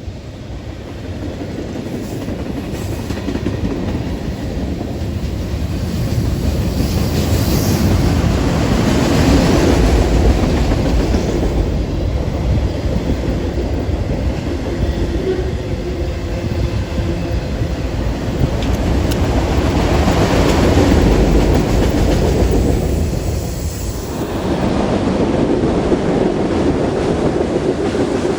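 CN train rolling past, a steady rumble of wheels on rail with clickety-clack. It grows louder over the first several seconds, peaks about a third of the way in and again about two-thirds through, with a short dip near the end.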